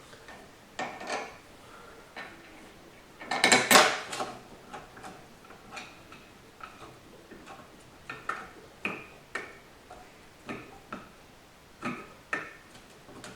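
Metal transmission parts clinking and tapping as they are handled and fitted together, in irregular knocks with a louder clatter about three and a half seconds in.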